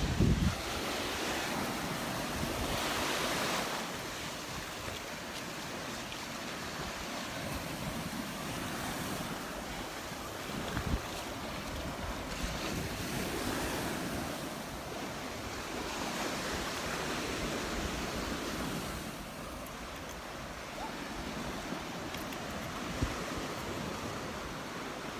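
Gulf of Mexico surf breaking on the shore, the wash swelling every few seconds, with wind buffeting the microphone.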